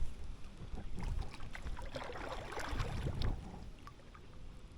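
Water splashing and dripping around a small paddled boat on a creek, with light knocks and a low rumble; the sounds swell in the middle and die down near the end.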